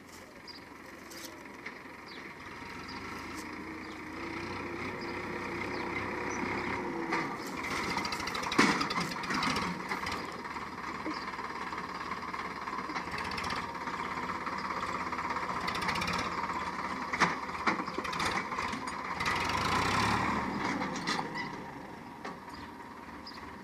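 Tractor engine running hard, growing louder over the first several seconds, loudest about twenty seconds in, then dying down, with a few sharp knocks along the way.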